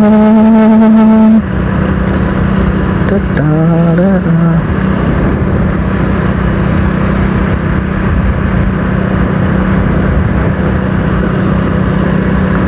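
Motorcycle riding noise, a steady engine drone mixed with rushing wind on the microphone. During the first second and a half, and again about three to four and a half seconds in, a drawn-out wavering voice-like tone sounds over it, like someone humming or singing.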